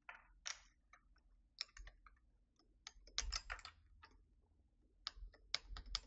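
Irregular plastic clicks and clacks of keycaps being fitted onto the numpad switches of a Keychron V6 Max mechanical keyboard, with a quick cluster of clicks about three seconds in and another near the end.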